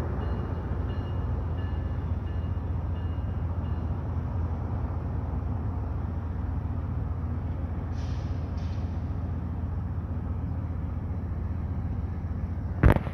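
Steady low rumble of an approaching train, with a sharp knock near the end.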